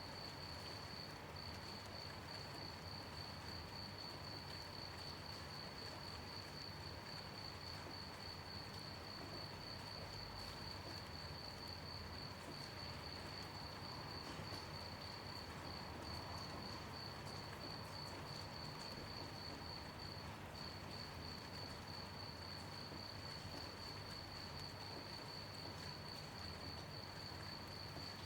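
Crickets chirping: one steady, rapid high-pitched pulsing trill that pauses briefly a few times, over a faint even hiss.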